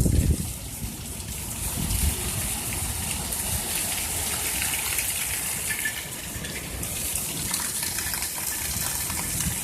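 Torrential rain pouring down, a steady heavy rush of water, with a short low rumble at the very start.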